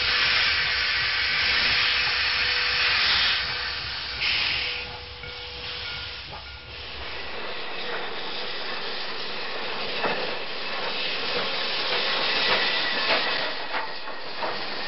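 Train sounds: a loud hiss of steam for the first three seconds or so and a shorter hiss about four seconds in, then a steady running sound with scattered clicks.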